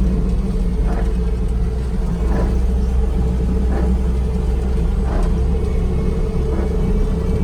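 Bobcat T650 compact track loader's diesel engine running steady, heard from inside the closed cab, with a soft swish about every second and a half from the windshield wiper.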